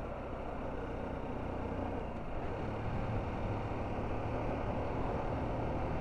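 Road vehicle driving along: steady engine and road noise, the low rumble growing a little stronger a couple of seconds in.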